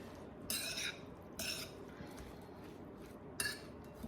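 Utensils clattering against a salad bowl in three short strokes while a kale salad is tossed and mixed.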